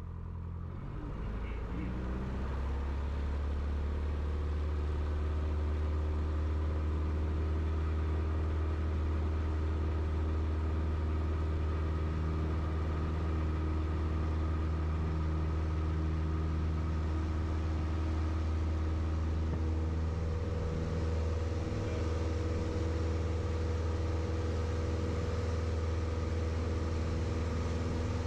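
Piper PA-28's single four-cylinder piston engine and propeller rising from low power to high power over the first few seconds, then running steadily at high revs, with a slight change in pitch about twenty seconds in.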